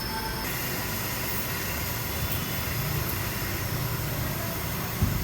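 A car engine running steadily at low speed over a constant rumbling background, with one short knock near the end.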